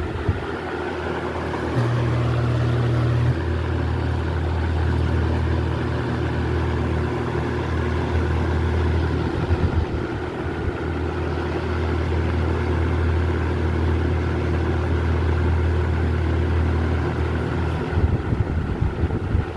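1989 Toastmaster 20-inch box fan running on high speed: a steady motor hum with the rush of air from its blades.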